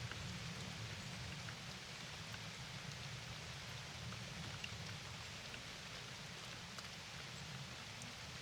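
Steady rain falling, with scattered individual drops ticking through an even hiss, over a low steady rumble.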